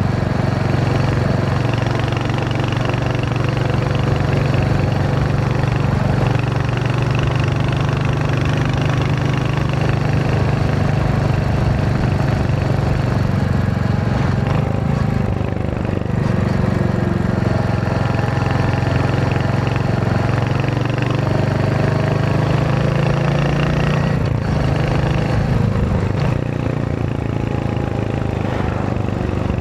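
Royal Enfield Hunter 350's single-cylinder engine running steadily while riding, its exhaust note dipping and picking up again a few times as the throttle or gear changes.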